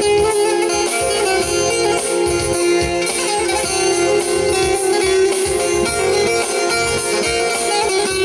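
Instrumental introduction of a Teke-region Turkish folk song (türkü), led by plucked strings over a steady held low note, with no singing yet.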